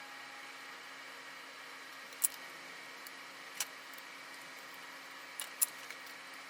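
A few sharp, short clicks from hand tools working on the wire leads, over a faint steady hiss and mains hum; the loudest come about two seconds in and near the end, two of them in quick succession.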